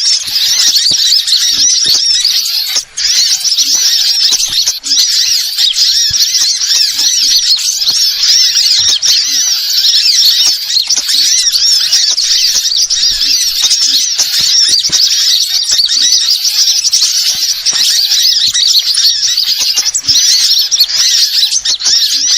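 Lure-bird recording: a dense flock of small birds chirping and twittering, with many quick high-pitched calls overlapping without a break.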